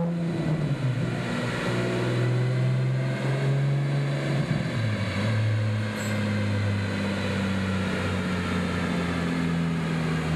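Porsche 987.2 Boxster Spyder's 3.4-litre flat-six running through a Fabspeed Supercup race exhaust, holding fairly steady revs, with a slight dip in pitch about halfway through.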